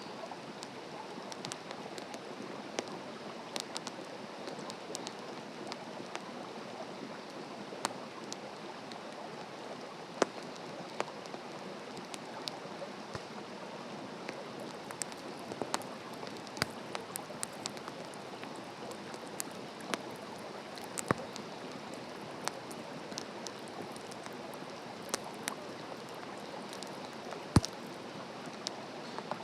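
Open wood campfire burning, crackling with irregular sharp pops over a steady hiss, one pop louder than the rest near the end.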